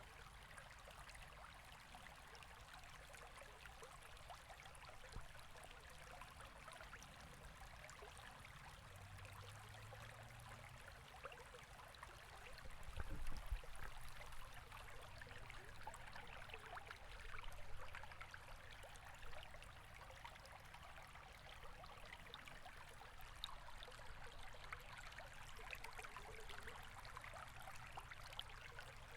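Faint river water running steadily, a soft rushing trickle, with a brief low rumble about halfway through.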